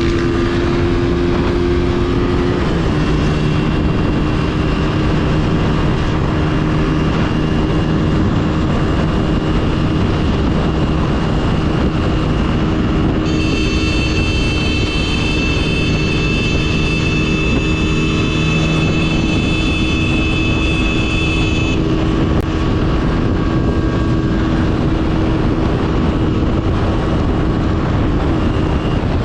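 Motorcycle riding at a steady speed, with loud wind rush over the microphone and the engine running at an even note. About halfway through, a high steady tone with several overtones sounds for roughly nine seconds over the ride noise.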